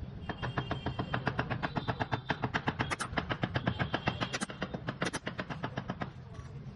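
Rapid, even mechanical clicking, about ten clicks a second, over a low steady hum, with a few louder sharp strikes among them; it stops about six seconds in.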